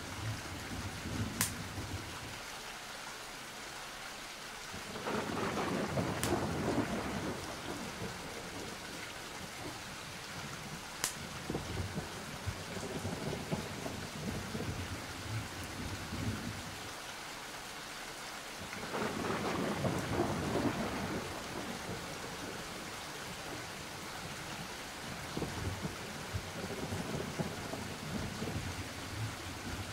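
Steady rain falling, with two long rolls of thunder swelling up about five seconds in and again near twenty seconds. A few faint sharp clicks sound in the first half.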